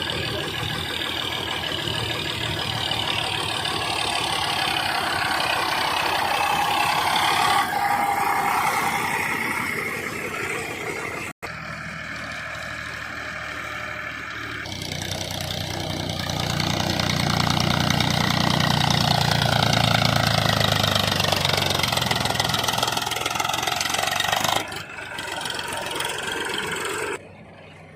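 Tractor diesel engines running, their pitch rising and falling. The sound comes in several clips joined by abrupt cuts, about 11, 15 and 25 seconds in.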